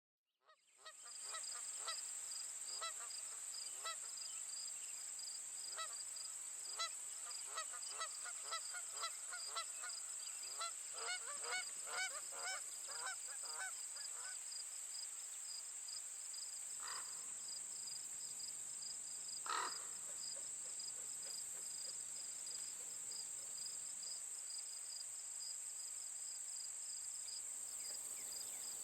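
Birds calling in a rapid series of repeated calls, several a second, thinning out after about fifteen seconds, with two lone calls later. Under them runs a steady high-pitched insect chorus.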